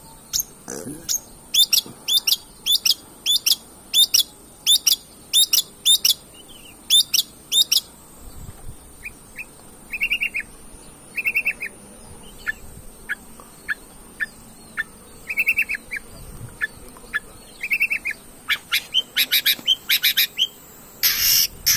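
Long-tailed shrike singing vigorously: a run of sharp, high, hooked notes about two a second, then softer short chattering trills and scattered notes, building to a fast burst of sharp notes near the end.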